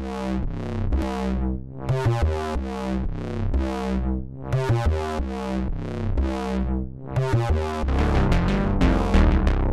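Electronic instrumental music made in the Groovebox app: synthesizer chords swelling and fading about once a second over a low bass line, then a fuller, louder section with drums comes in about eight seconds in.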